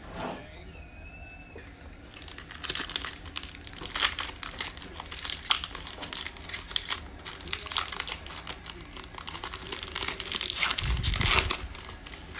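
Foil trading-card pack wrapper being torn open and crinkled by hand, a dense crackling that starts about two seconds in and runs most of the way, with a low thump near the end.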